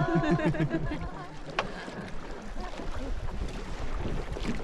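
Small boat moving on water with wind noise on the microphone, and a single sharp knock about one and a half seconds in.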